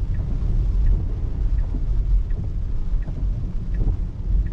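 Steady low rumble of tyre and road noise inside the cabin of a 2024 Tesla Model 3 driving on a rain-soaked road, with faint regular ticks of the turn signal, switched on for a right turn, a little under a second apart.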